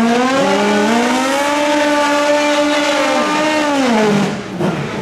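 Drag racing motorcycle engine at full throttle: its pitch dips once just after the start, as at a gear shift, climbs and holds high, then falls away and drops off near the end.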